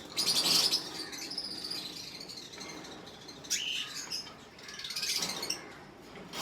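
Cockatiels chirping and calling, with the loudest burst of high calls in the first second and more calls a little past the middle.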